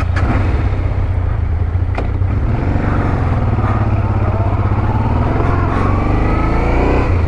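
BMW GS motorcycle engine running just after a hard start, its pitch rising and falling in the middle as it is revved. A sharp click sounds about two seconds in.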